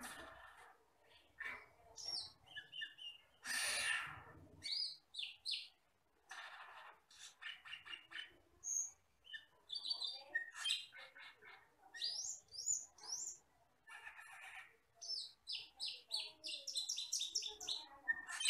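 Cucak keling (camperling) birdsong: a varied run of sharp chirps, quick rattling series of short notes and rising whistles, broken by a few harsh rasping calls.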